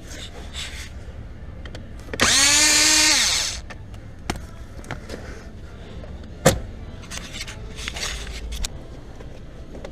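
A handheld power drill or driver runs once for about a second and a half, its whine rising as it comes up to speed. A few seconds later there is a single sharp click, among smaller knocks.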